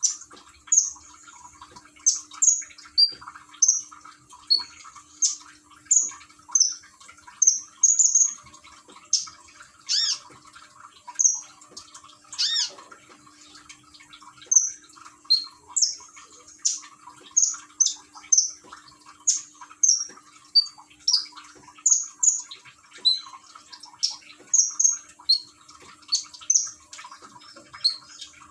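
A konin bird calling in short, high, sharp chirps, about one or two a second, with a couple of longer downward-sliding notes midway. Under the chirps is a steady trickle of water and a faint low hum.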